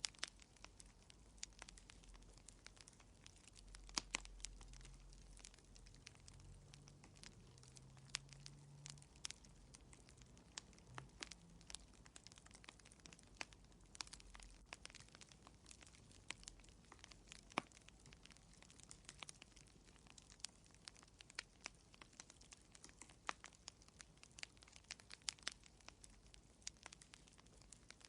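Fireplace fire crackling: irregular sharp pops and snaps, several a second, over a faint low hum.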